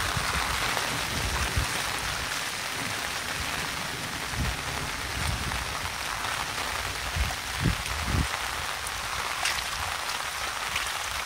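Heavy rain falling steadily, an even hiss, with a few dull low thumps, the loudest two close together a little after the middle.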